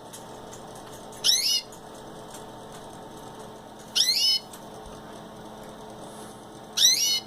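Pet canary calling: three short, sharp calls about two and a half seconds apart, each a quick downward-sweeping note.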